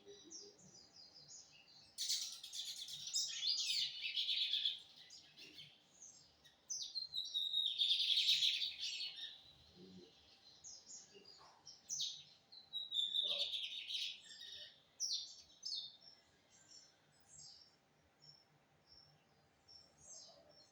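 Lined seedeater (bigodinho) singing: three loud phrases of rapid high notes, each lasting two to three seconds and a few seconds apart, with softer single chirps in between and after.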